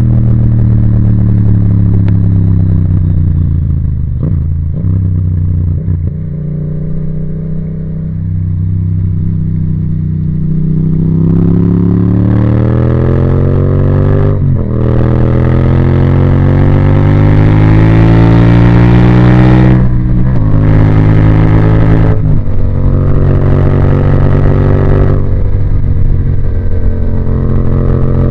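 Yamaha MT-07's parallel-twin engine through an Akrapovic titanium exhaust. The note falls as the bike slows over the first few seconds, then climbs through the gears with two upshifts, about halfway and two-thirds of the way in, and settles into a steady cruise near the end.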